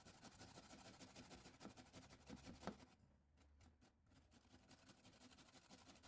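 Near silence in a small room, with a few faint soft knocks and clicks, the clearest about two and a half seconds in.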